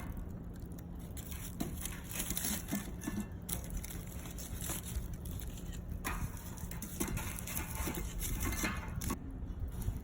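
Cooking over a wood fire: a steady hiss with many small scattered crackles, over a low rumble.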